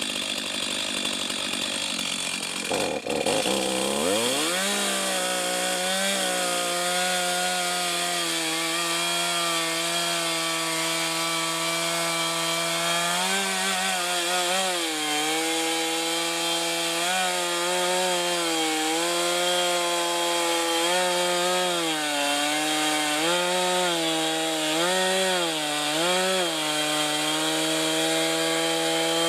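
Two-stroke chainsaw revving up about three seconds in and running at full throttle while bucking a fallen log, its pitch dipping again and again as the chain bogs under load in the wood. Near the end the throttle is released and the pitch drops.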